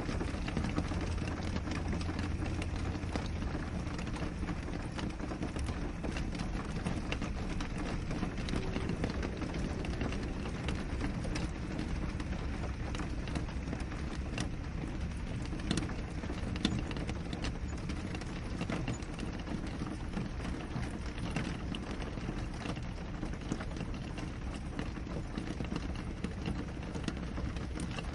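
Steady rain falling on a window pane, a continuous hiss dotted with many small ticks of drops striking the glass. A low hum sits under it for the first few seconds.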